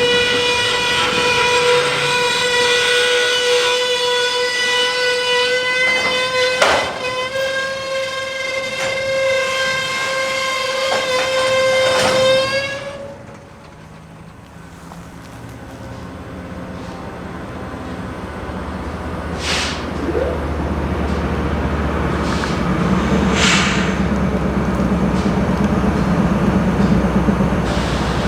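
BNSF freight train's brakes squealing in one steady high-pitched tone as it creeps to a stop, with a couple of clanks, cutting off about halfway through. Then the stopped diesel locomotives' low rumble builds, with two short hisses.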